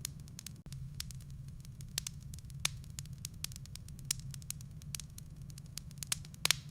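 Wood fire in a fireplace crackling: irregular sharp pops and snaps over a steady low rumble of the burning logs, with a louder cluster of pops near the end.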